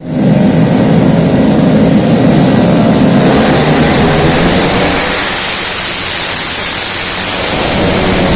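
Small automatic scooter engine running loud and steady, with a harsh hiss on top. About three seconds in, the low rumble eases and the hiss grows stronger.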